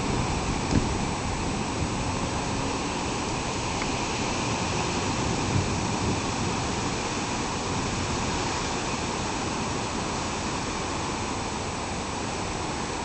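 Wind blowing in a steady rushing noise, with a slight gust about five and a half seconds in.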